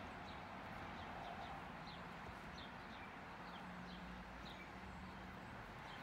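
A small bird chirping over and over in short, high, falling notes, about two or three a second, over a faint steady outdoor hiss.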